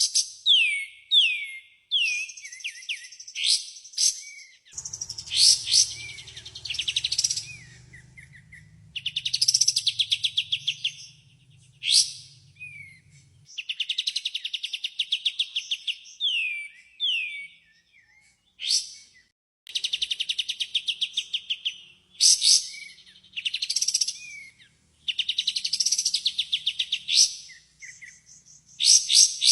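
Songbird lure recording of kapas tembak song: bursts of rapid, high trills and quick down-slurred whistled notes, repeated phrase after phrase with short pauses. A faint low hum sits under the song for several seconds, beginning about five seconds in.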